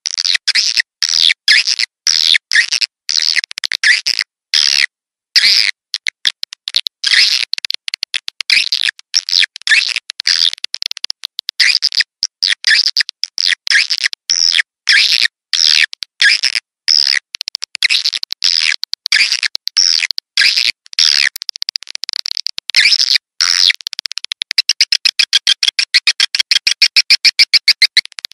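Swiftlet lure call: loud, rapid high-pitched twittering chirps in quick bursts with short gaps, ending in a fast, even run of short chirps near the end. This is the kind of call recording played from tweeters in swiftlet houses to draw edible-nest swiftlets in.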